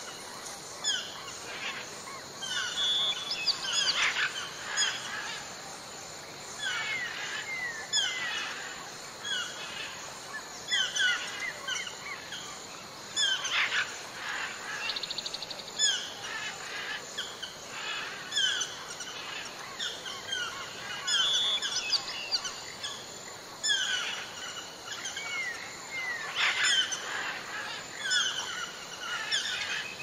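Birds calling in the forest: many short chirps that slide downward in pitch, repeated throughout and overlapping, over a quiet outdoor background.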